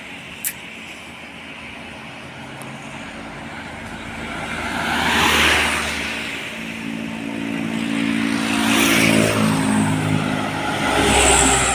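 Road traffic on a highway: vehicles go by one after another, swelling about five, nine and eleven seconds in. The low drone of a heavy truck engine runs through the middle passes.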